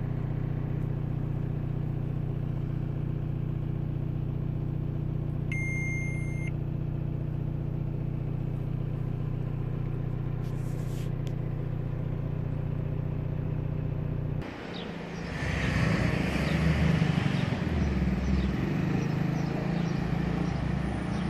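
Volkswagen New Beetle's 1.9-litre 90 hp four-cylinder turbodiesel idling steadily, heard from inside the cabin, with a short electronic beep about six seconds in. About fourteen seconds in it cuts to louder, uneven street traffic noise.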